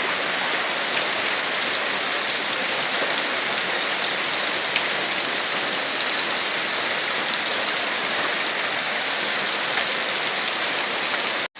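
Heavy rain falling steadily: an even hiss of rain with scattered drop ticks. It breaks off for an instant near the end.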